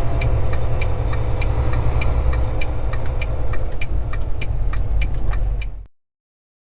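Semi-truck cab noise while driving: a steady low engine and road drone with a regular light clicking about three times a second. The sound cuts off abruptly near the end.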